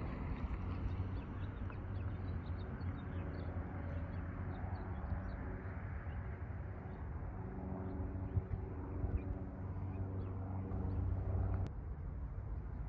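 A steady low mechanical hum that stops abruptly near the end, with faint short bird chirps over it.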